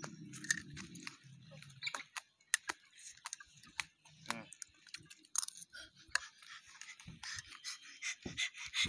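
Person chewing food, with scattered small irregular clicks and taps.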